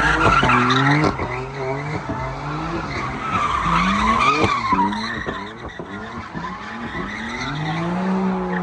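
Car engine revving up and down repeatedly while its tyres screech against the road, the tyres spinning as it skids. The screech is loudest in the first half; near the end the engine settles into a steadier held note.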